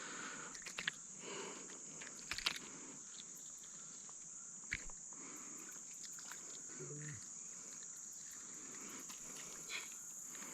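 Steady high-pitched drone of insects, with a few faint clicks and knocks from handling.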